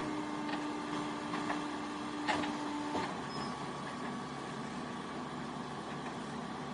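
Steady heavy-machinery engine noise with a constant hum that stops about three seconds in, and a few light knocks.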